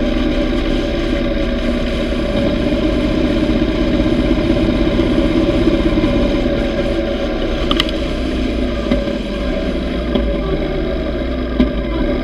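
Yamaha V Star 950's V-twin engine running steadily, a little louder for a few seconds in the middle.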